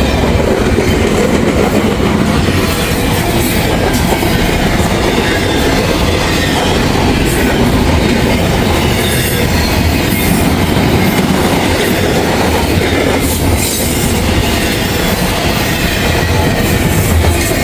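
Freight cars of a long Norfolk Southern train rolling past close by: a loud, steady rumble and clatter of steel wheels on rail.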